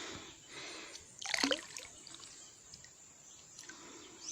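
Shallow river water trickling faintly, with one short louder sound about a second in.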